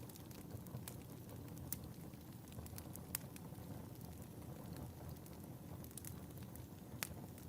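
Wood fire crackling in a fireplace: a low steady rumble of burning with scattered sharp pops and snaps, the loudest about three seconds in and again near the end.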